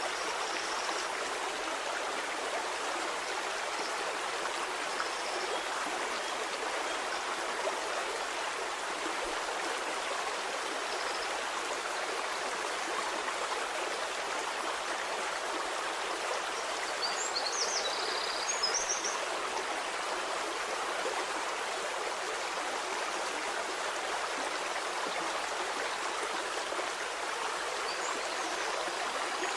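Steady rushing of a flowing stream, with a few brief high chirps a little past halfway.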